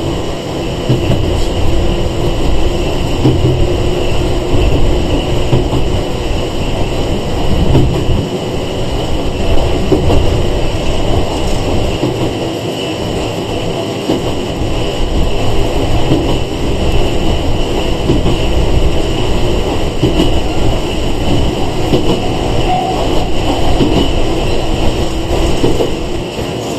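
Running sound of a Sangi Railway 101 series electric train (ex-Seibu 401 series) heard from inside the car: a steady rumble of wheels on rail and the motors, with a constant high ringing band over it.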